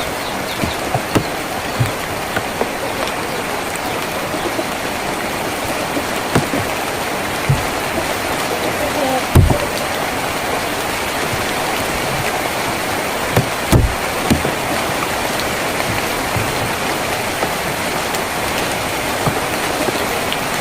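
Steady rain on a tin roof, a dense even patter with heavier single drops striking now and then, the loudest about nine seconds in and again near fourteen seconds.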